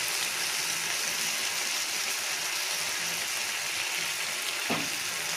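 Onions, capsicum and tomato sauce sizzling steadily in hot oil in a kadai, with one light knock near the end.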